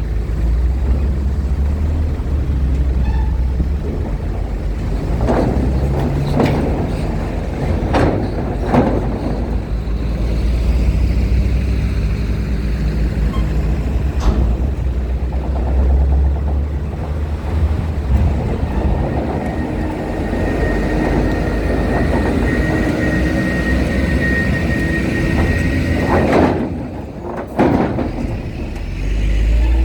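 Heavy trucks and buses running with a deep engine rumble, with several loud knocks and clanks among them. A steady high whine sounds for several seconds past the middle.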